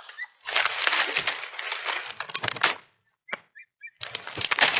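Leaves and branches rustling and crackling as a bear bites and pulls a fruiting branch, in two bouts with a short lull between them. A few faint bird chirps sound in the lull.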